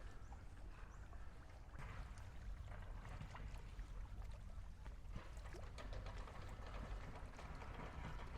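Faint seaside water lapping, with a steady low rumble and scattered small clicks.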